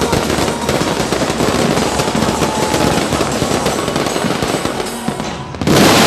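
Fireworks crackling in a dense, rapid stream of pops, with a sudden louder burst about five and a half seconds in.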